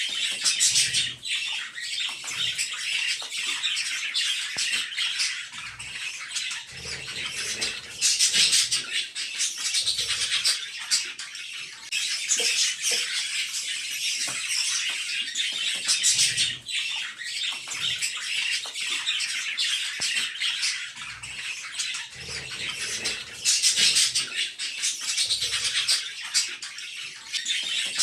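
Budgerigar chicks giving a dense, continuous chatter of begging calls while the adult male feeds them, swelling louder every few seconds.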